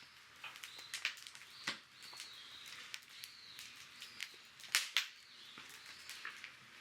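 Wood campfire crackling, with irregular sharp pops and snaps, the loudest a little before the five-second mark. Faint short high whistling tones come and go.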